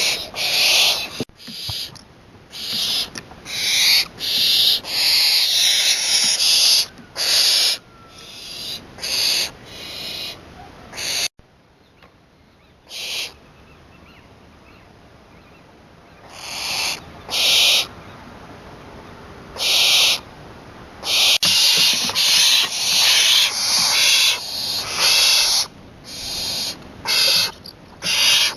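Young barn owl giving repeated rasping hisses, each about half a second long, in quick runs with a quieter break of several seconds near the middle.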